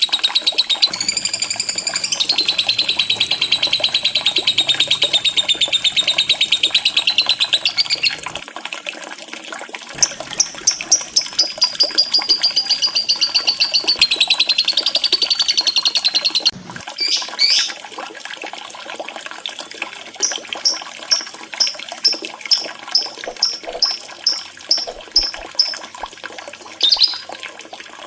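Lovebird chattering in long, very rapid high-pitched trills, the drawn-out 'ngekek' song used as a lure to get other lovebirds singing. Partway through it breaks into a run of short chirps, about two a second, over a faint sound of running water.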